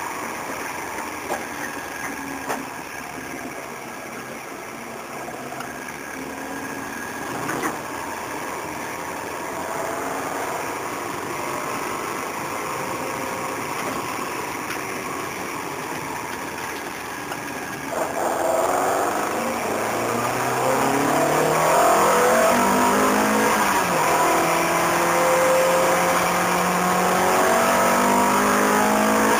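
Peugeot 306 GTi-6's four-cylinder engine heard from inside the cabin, running gently at low speed, then from about two-thirds of the way in accelerating hard, its revs climbing in several sweeps through the gears and then holding steady and high.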